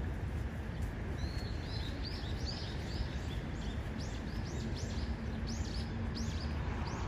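Small birds chirping: a run of short, high, arching chirps, about two or three a second, starting about a second in and growing louder toward the end. Under them runs a steady low rumble of background noise.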